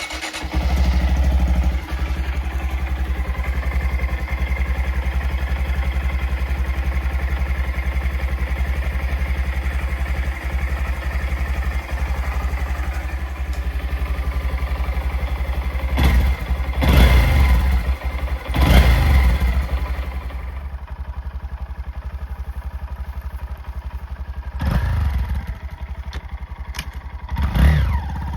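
Honda Monkey's single-cylinder four-stroke engine starting and idling steadily through its exhaust, blipped four times: twice about two-thirds of the way in, then twice more near the end.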